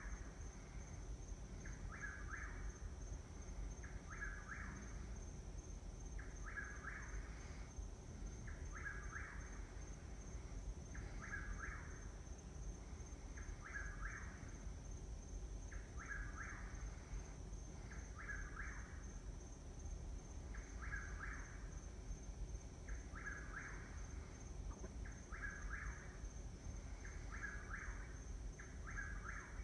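A bird calling at night, giving the same short call about every two seconds, over and over. A faint, steady, high-pitched tone runs underneath.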